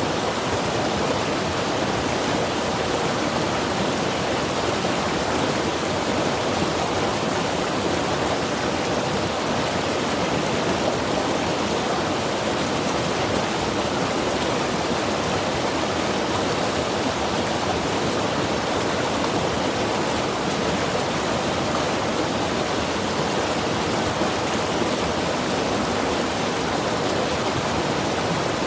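Mountain river rushing steadily over rocks, an even, continuous roar of water.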